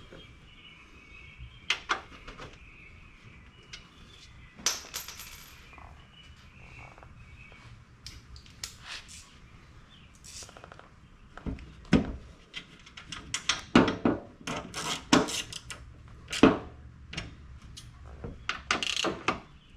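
Metal clicks and clinks of bolts being started by hand into rivet nuts and snugged up on a steel door armor panel. The clicks are scattered at first and come thick and fast over the second half.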